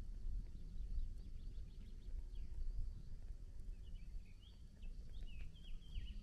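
Small birds chirping in quick, downward-sliding notes, sparse at first and busiest over the last two seconds, over a low rumble of wind on the microphone.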